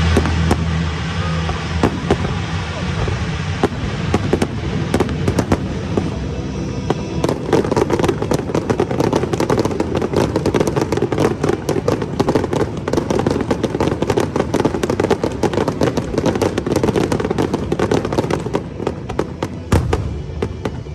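Fireworks going off in quick succession: a dense run of bangs and crackles that thickens from about seven seconds in and thins out near the end.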